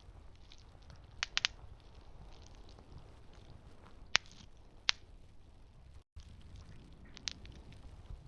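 Campfire burning with a low rumble, broken by sharp crackles and pops of burning wood: a cluster of three about a second in, single loud pops around four and five seconds, and another near the end. The sound cuts out for an instant a little after six seconds.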